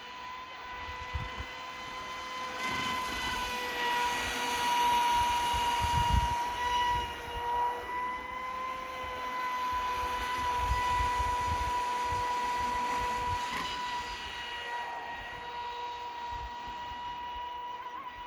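Radio-controlled model boat's motor running with a steady high whine. It grows louder and fades again twice as the boat moves about, with gusts of wind on the microphone.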